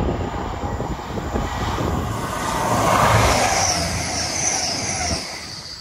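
Grand Central passenger train passing close by at speed: a rush of wheels and air that swells to a peak about three seconds in. A whine falls in pitch as the train goes by, then the sound fades.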